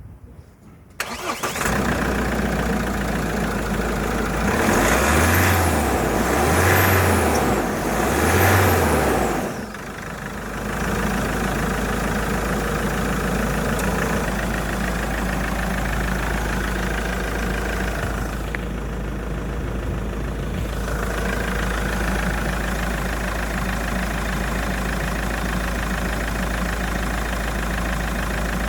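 2022 Mahindra Pik Up's four-cylinder turbo-diesel engine starting about a second in, then revved up and back down three times before settling to a steady idle.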